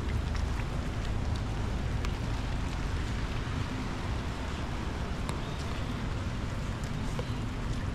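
Steady outdoor rain ambience: an even hiss of rain with scattered small ticks of drops, over a constant low rumble.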